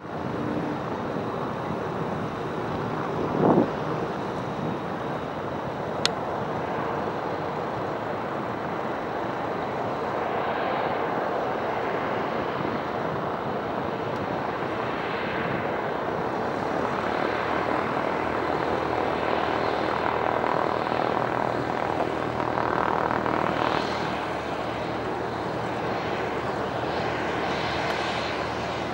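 Light propeller airplane engine running steadily, a little louder around twenty to twenty-four seconds in. A brief loud thump about three and a half seconds in, and a sharp click at six seconds.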